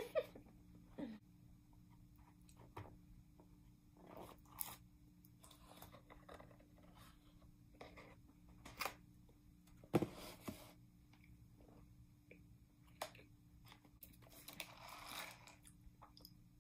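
Faint close-up chewing of a mouthful of soft powdered donut hole, with scattered wet mouth clicks and smacks and a sharper knock about ten seconds in.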